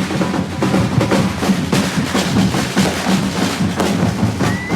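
Drums beating a fast, dense rhythm at a street celebration, with a short rising whistle near the end.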